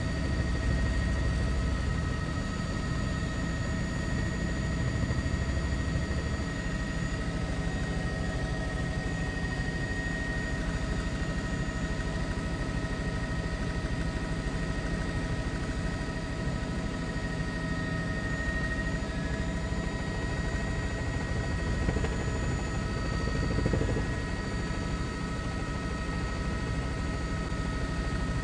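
Steady helicopter engine and rotor noise heard from inside the aircraft: a constant low drone with several steady high whining tones over it.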